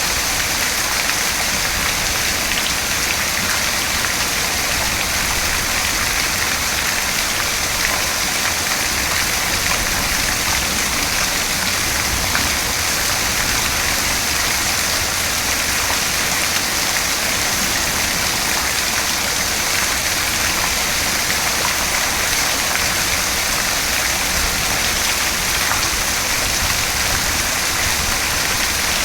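Steady, dense rainfall, a constant hiss of drops with faint scattered patters, with no thunder heard.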